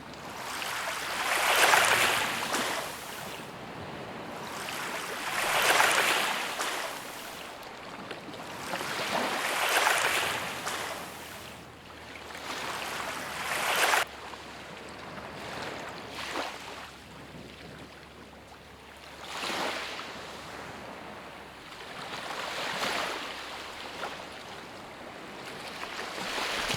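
Sea waves washing onto a shore, the surf swelling and fading about every four seconds. The sound cuts off abruptly about fourteen seconds in, and the later swells are softer.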